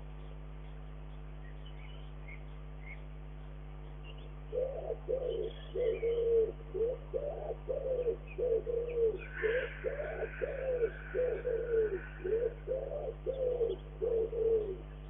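A bird calling a long run of low, evenly spaced coo-like notes, about two to three a second, that starts a few seconds in and stops just before the end. A higher, noisier call overlaps it for a few seconds midway.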